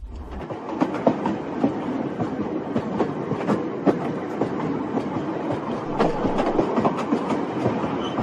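Train running along its track: a steady rumble with continual clattering clicks from the wheels.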